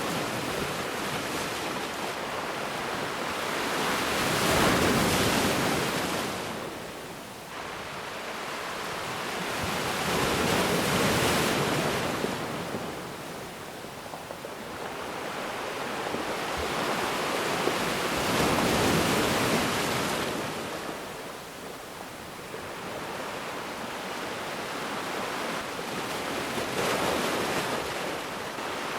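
Ocean waves breaking on a shore and washing back, swelling and easing about every six to seven seconds.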